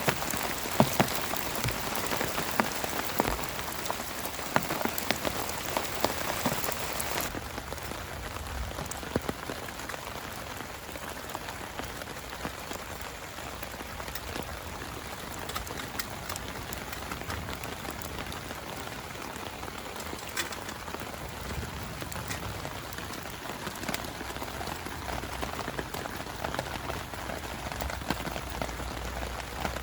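Heavy rain falling, a dense steady hiss peppered with sharp ticks of single drops striking close by. About seven seconds in, the hiss loses its highest part and goes duller.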